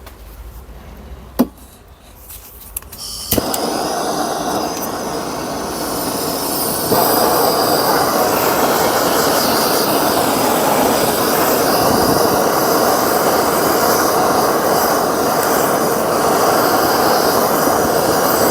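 Gas torch flame: a few clicks, then the torch lights about three seconds in with a steady rushing hiss. A few seconds later it is turned up louder and holds steady, heating a gearbox part to free it.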